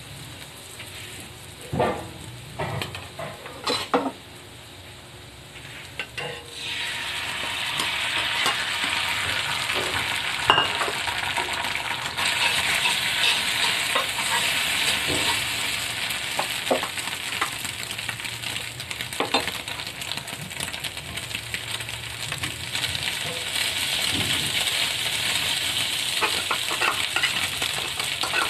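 Garlic frying in oil in a cast-iron pan, with a metal spoon clinking and scraping against the pan. About six seconds in, the sizzle gets much louder and stays loud as egg is added to the hot oil and stirred, with occasional knocks of the spoon.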